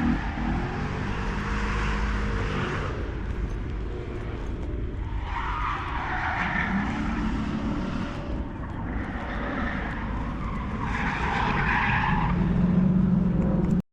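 Motocross bike engines revving as riders go round a dirt track, the engine pitch rising and falling in several surges.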